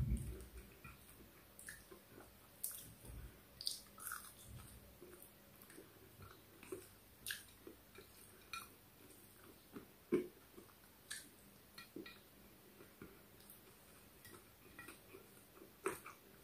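Faint mouth sounds of a person eating rice and fish by hand: chewing and wet smacks as short, irregular clicks, a couple or so each second.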